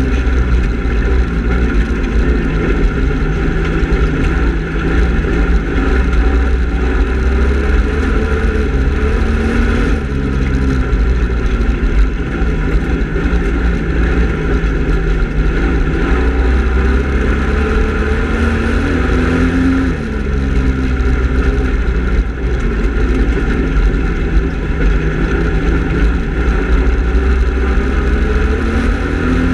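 Speedway race car engine running hard for lap after lap, its pitch climbing and then dropping back about every ten seconds, over a constant loud low rumble.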